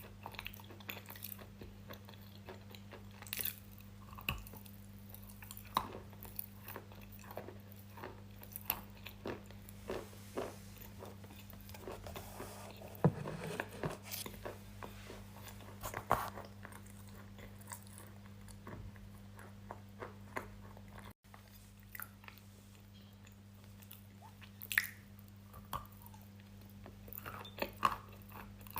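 Close-miked biting and chewing of something hard and crunchy, with sharp crunches every second or so and a denser run of crunching about midway, over a steady low electrical hum.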